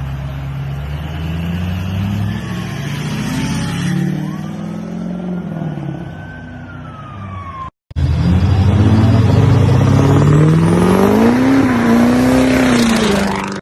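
Diesel pickup truck engines revving in two short clips, split by a sudden cut to silence just under eight seconds in. In the second, louder clip the engine climbs in pitch and stays high near the end.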